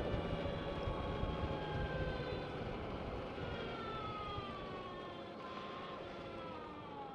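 Electric motorcycle motor whine (Energica Experia), several high tones falling slowly in pitch as the bike slows, over low wind rush that fades away.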